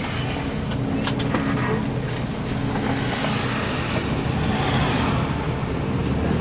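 Intercity bus engine running steadily with road noise, a low, even drone, with a couple of brief rattles about a second in.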